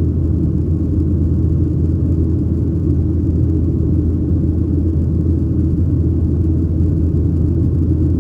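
Steady cabin rumble inside a Boeing 737-800: the drone of its CFM56 engines and airflow, loud, low and unchanging.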